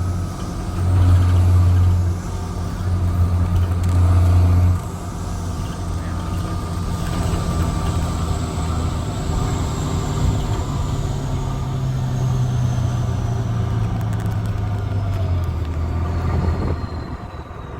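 Straight-piped Cummins C8.3 diesel engine of a 1995 Carpenter school bus running under way, its throaty exhaust loudest in two pulls during the first five seconds, then steadier. Later the engine note climbs and drops back about 15 seconds in.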